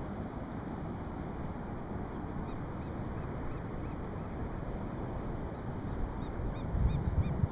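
A steady rushing noise with a low rumble, like wind on the microphone, and a bird calling over it. From about two and a half seconds in, the bird gives a run of short, high, rising-and-falling calls, a few each second, which grow louder near the end. Low buffeting swells in the last second or so.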